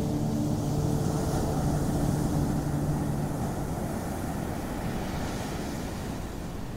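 Ocean surf washing steadily onto a beach as a continuous rush of waves. A few held low notes of ambient music fade out in the first three seconds.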